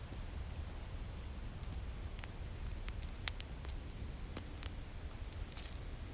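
Crackling fire with irregular sharp pops, over a steady low rumble of winter wind.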